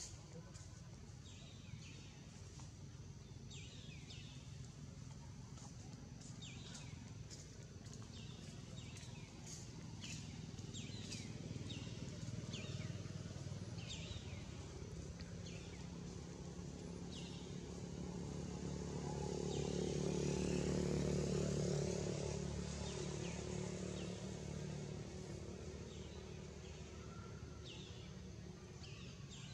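Outdoor ambience: a bird repeats short high chirps about once a second, over a low engine hum from a passing motor vehicle that swells to its loudest about two-thirds of the way through and then fades.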